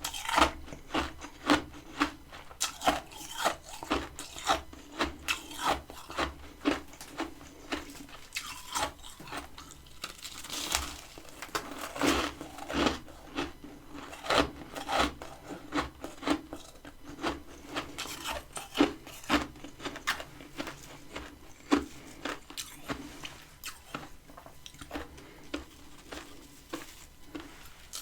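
Freezer frost being bitten and chewed close to the microphone: a long run of crisp crunches, coming about twice a second at first and more irregularly later.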